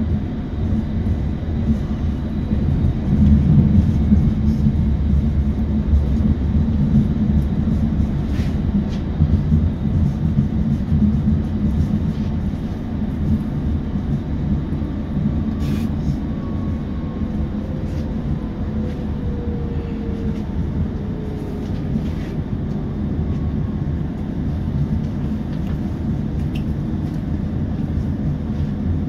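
ABB UBp electric multiple unit running along the track: a steady low rumble with a few faint clicks. About two-thirds in, a faint whine slides down in pitch.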